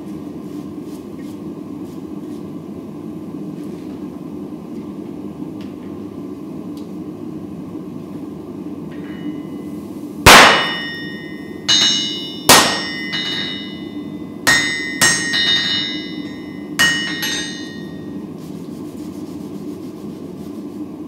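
Hammer striking hot steel on an anvil while forging a damascus billet: about eight irregular blows from about halfway in, each ringing briefly, the first the loudest. A steady low rushing noise runs underneath.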